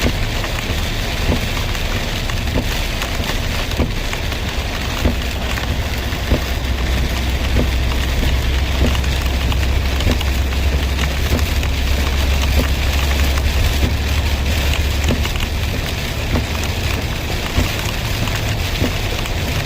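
Steady rain falling, with individual drops tapping sharply on a surface now and then. A heavy low rumble runs underneath, strongest in the middle of the stretch.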